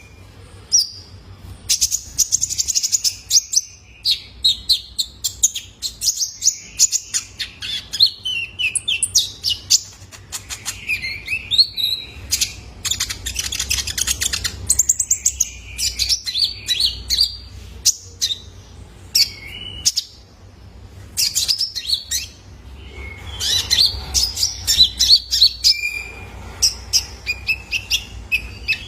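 Young male Van Hasselt's sunbird (kolibri ninja) singing: a fast, nearly unbroken run of high chirps, twitters and short trills.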